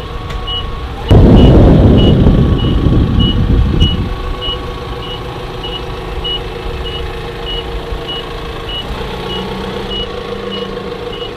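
Vehicle backup alarm beeping about every half second over a running engine. A loud burst of noise starts suddenly about a second in and dies away over about three seconds.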